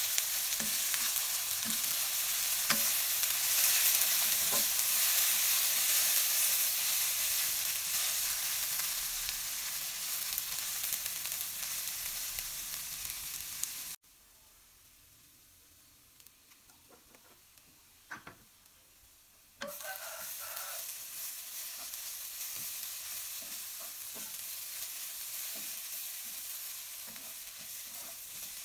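Shredded ginger sizzling as it fries in oil in a pan, with a wooden spatula scraping and stirring it. About halfway through, the sizzle cuts off abruptly. Near silence with a few faint clicks follows for about five seconds, then the sizzle resumes, a little quieter.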